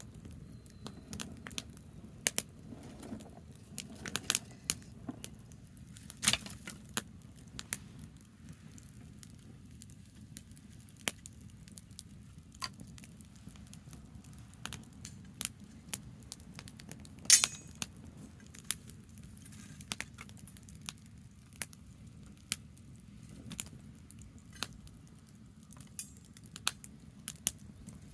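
Branch campfire crackling: irregular sharp pops and snaps, the loudest about 17 seconds in, over a low steady rumble.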